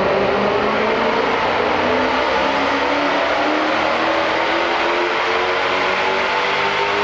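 V8 engine of a 1969 Ford Falcon XW GT-HO running under load. Its pitch eases down for the first second or so, then climbs steadily as the car accelerates.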